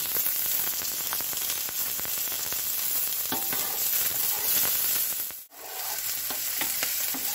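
Diced onion and celery sizzling in hot grapeseed oil in a pan, stirred with a spatula, with steady hissing and scattered crackles. The sound cuts out for an instant about five and a half seconds in.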